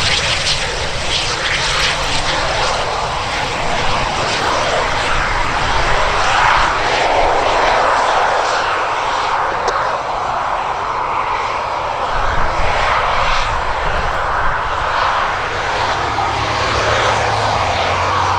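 Military jet aircraft engines running loud and steady, a dense noise that holds throughout, with a low hum joining in about two-thirds of the way through.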